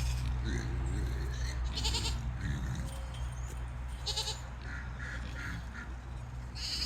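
Goats bleating a few times, upset at not yet being fed, over a steady low hum.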